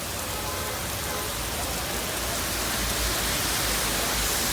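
Steady rain falling, an even hiss that grows a little louder about halfway through.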